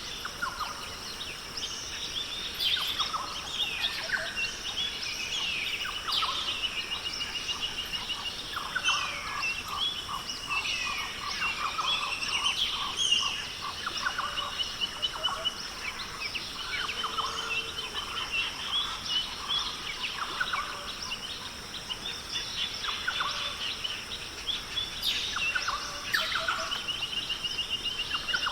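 Australian rainforest ambience: many birds calling over one another, with repeated trills, chirps and a quick run of pulsed notes about a third of the way through, over a steady high-pitched drone.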